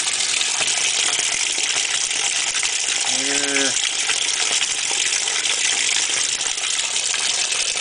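Hotpoint HTWP1400F1WW top-load washing machine filling for its rinse cycle: a steady rush of water pouring into the tub.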